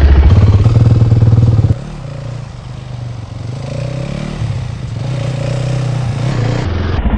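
Yamaha WR250F's single-cylinder four-stroke engine running loud under throttle, then suddenly dropping to a much quieter note about two seconds in, as on closing the throttle. The quieter engine note rises and falls in pitch, then grows louder again near the end.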